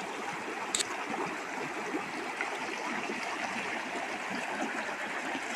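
Steady rush of a river running high with fresh rainwater, with one short click about a second in.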